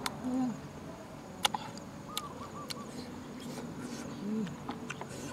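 A bird calling, a quick run of about four short rising-and-falling notes, and two low hooting notes, over a steady insect-like hiss. A few sharp clicks from snail shells being handled in a bowl.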